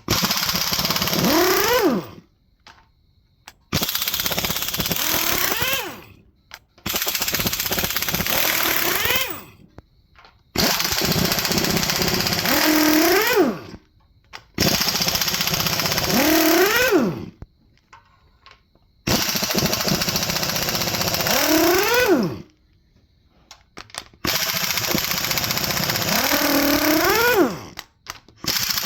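Impact wrench run in seven bursts of two to three seconds with short pauses between, its pitch climbing near the end of each burst before it stops: bolts being run off during an LS 5.3 V8 engine teardown.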